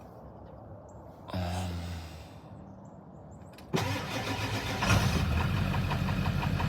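Ford 7.3 L Power Stroke turbo-diesel V8 cold-starting with three bad glow plugs: a short low burst about a second and a half in, then near the four-second mark it cranks and fires, picks up about a second later and settles into a steady, rhythmic idle.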